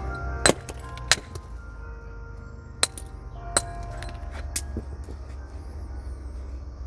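Flintknapping: a natural percussor struck against a flint nodule, five sharp glassy clinks, irregularly spaced with a few lighter taps between, as flakes are knocked off in reducing the stone to a biface.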